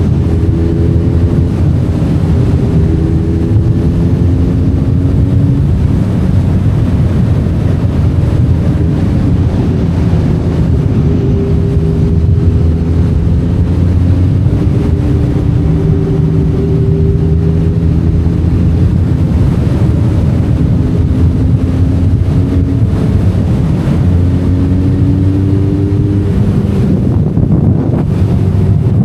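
Benelli Leoncino 500 Trail's parallel-twin engine running under way, its revs climbing and dropping several times with the throttle, with wind noise on the microphone.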